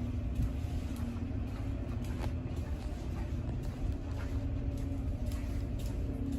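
Steady low mechanical rumble with a steady hum and a few faint clicks.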